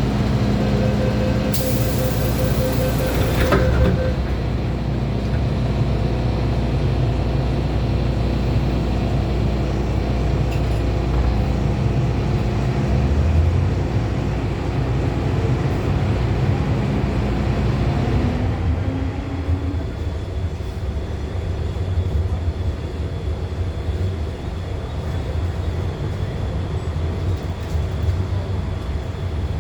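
Inside an MTR M-Train car: a steady low hum with a sharp burst of air hiss about two seconds in. Around two-thirds of the way through, a short rising motor tone comes in, then a steady high whine.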